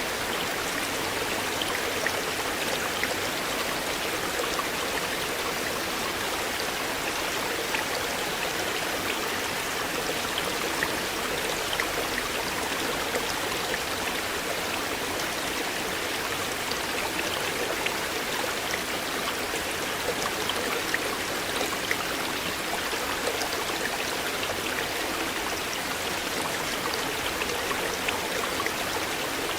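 River water flowing in a steady, unbroken rush, with small splashes and drips throughout.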